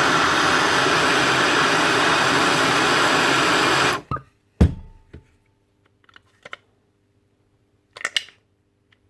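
Heat gun blowing steadily to warm tight screws so they can be loosened, switched off about four seconds in. A sharp knock follows, then a few light clicks of tools on metal.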